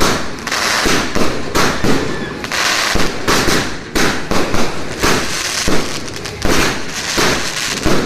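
Fireworks and firecrackers going off in a dense, continuous barrage of loud bangs and crackling, several bursts a second with no pause.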